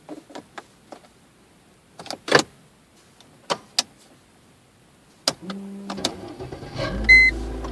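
Key clicks in the ignition of a Mercedes-Benz W202 C240, then about five seconds in its 2.4-litre V6 cranks briefly, catches and settles into a steady idle. A short high beep sounds near the end.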